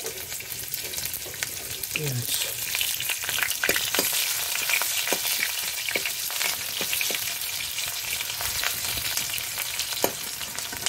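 Sliced onion sizzling in hot oil with tempering spices in a steel karahi, a steady frying hiss, while a steel spoon stirring the pan scrapes and clinks against it several times.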